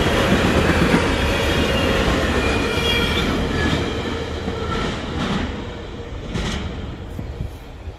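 Freight train of autorack cars rolling past over the rails, with high, thin squeals from the wheels. The sound fades over the last few seconds as the end of the train goes by.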